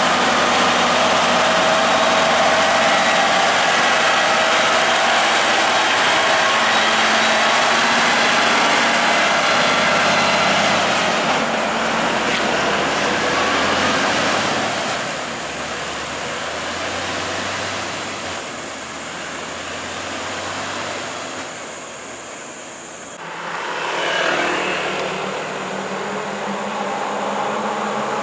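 Heavy truck running, with dense road and engine noise that is loud for about the first eleven seconds, then quieter, swelling briefly near the end.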